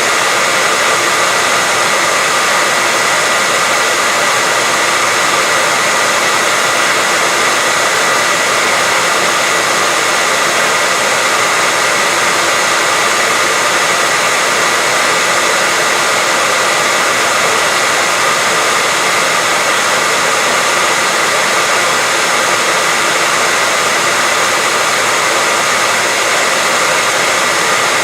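White noise: a loud, steady hiss that never changes, bright and airy, with a faint steady whistle-like tone running through it.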